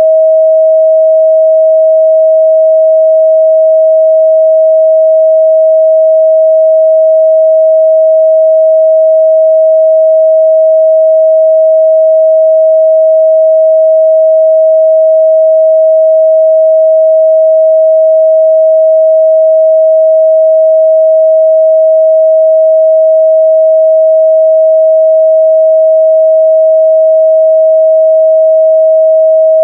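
A steady, loud 637 Hz pure sine test tone, one unchanging pitch with no overtones.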